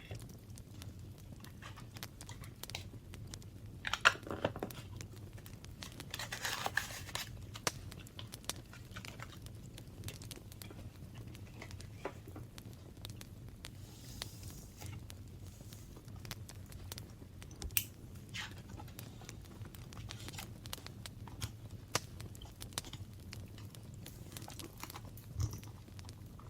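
Paper being handled for a craft journal: crinkling and rustling with scattered small taps and clicks, a sharper knock about four seconds in and a longer rustle a couple of seconds later, over a steady low hum.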